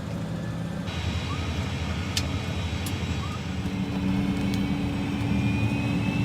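Private jet's engines running steadily, with a high turbine whine that slowly rises near the end as they spool up.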